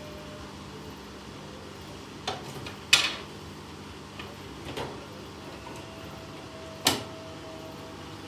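Washing machines running on a spin cycle, a steady hum, broken by four sharp knocks, the loudest about three seconds in and another near the end.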